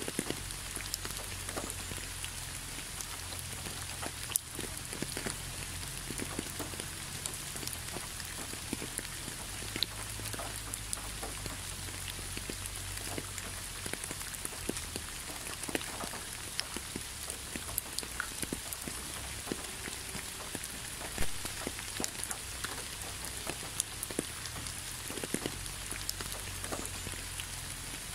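Steady rain with many separate drops ticking on a surface, over a steady low rumble.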